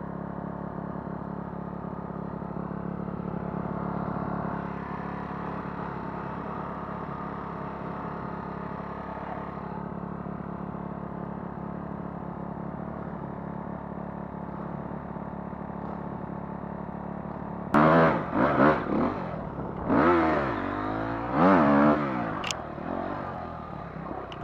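Dirt bike engine running at a steady speed, then, about 18 seconds in, revved hard several times, the pitch sweeping up and down with each burst of throttle.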